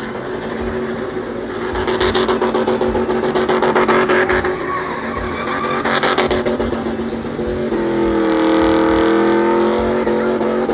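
Car engine revving and held at high revs, with rushes of noise a couple of seconds in and again about six seconds in. Its pitch swings about eight seconds in.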